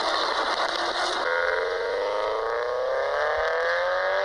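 Recorded car engine sound: one engine clip cuts off about a second in, and another car's engine then accelerates with its pitch rising steadily.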